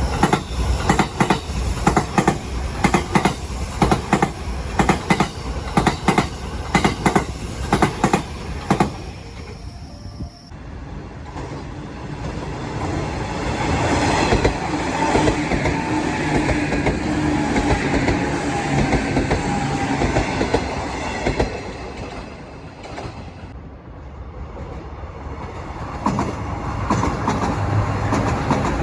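Trains running over jointed rail: for about the first ten seconds wheels clatter over the rail joints in a rapid, regular clickety-clack. Then the sound changes suddenly to a different train passing with a smoother rumble and a steady hum, and near the end another train comes up.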